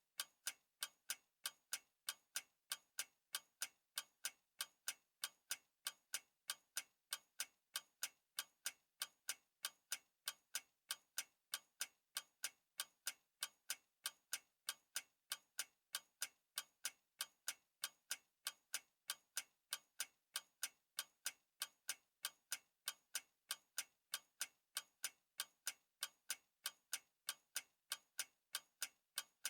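Clock ticking steadily, sharp even ticks at about two a second.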